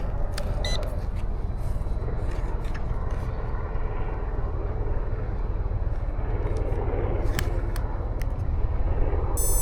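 Radio-controlled model helicopter running over a steady low rumble, its rotor whir growing louder over the last few seconds, with a few light clicks.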